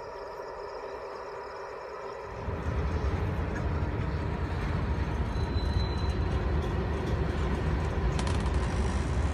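A steady humming tone, then about two seconds in the loud low rumble of a train starts up and keeps going.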